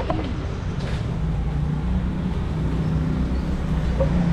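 Large motorcycle engine running steadily, a low even drone.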